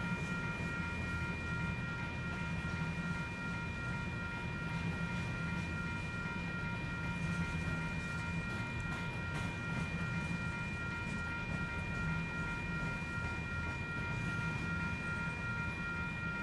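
Freight train's hopper cars rolling past, a steady low rumble of steel wheels on rail, with a steady high-pitched whine throughout.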